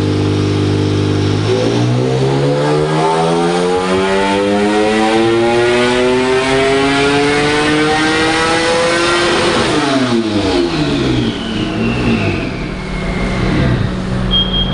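Turbocharged Toyota 2GR-FE 3.5-litre V6 making a full-throttle dyno pull at 8 psi of boost: steady at first, then from about a second and a half in the engine note rises steadily for about eight seconds through the rev range. Near the ten-second mark it lifts off and the revs fall away, with a high whistle falling in pitch as everything winds down.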